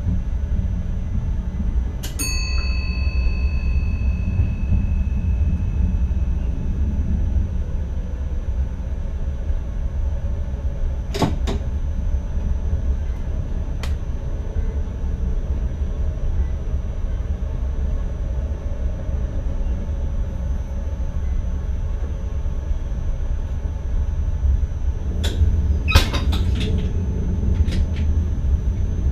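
Steady low rumble of an NS ICM electric train running, heard inside the driver's cab, with a faint constant high whine. About two seconds in a single metallic ding rings out and dies away over a few seconds. Sharp knocks come around eleven seconds in and in a cluster near the end.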